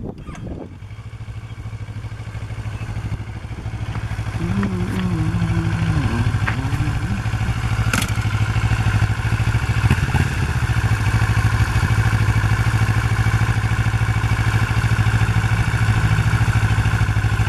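Kawasaki Ninja 650R parallel-twin engine running at low, steady revs with little or no throttle, growing louder over the first five seconds and then holding steady.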